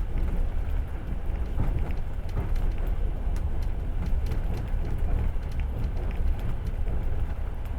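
Passenger train running on the rails: a steady low rumble of the wheels with scattered light clicks and rattles.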